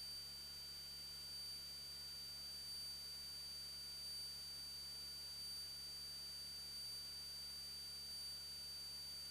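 Faint steady hiss with a thin, high, constant electrical whine and a low hum, the idle background of the aircraft's intercom and radio audio feed between transmissions; no engine noise comes through.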